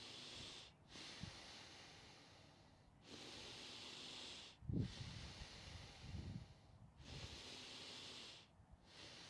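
Deep, rhythmic breathing in and out, a breath about every two seconds: Wim Hof-method power breathing during a breathing round. A few low thumps come near the middle.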